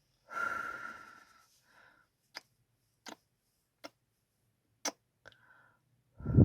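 Mouth kissing sounds made into the microphone: a breathy kiss near the start, then several short lip smacks and clicks spaced roughly a second apart, and a louder kiss with a rush of air near the end.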